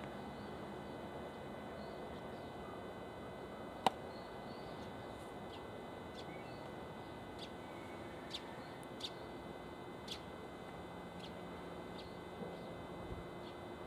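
Quiet outdoor ambience: small birds give a dozen short, high chirps over a faint steady high whine. One sharp click about four seconds in.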